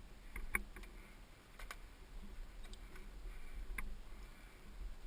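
A handful of scattered sharp clicks and taps, the strongest about half a second in and another near four seconds, over a low steady rumble.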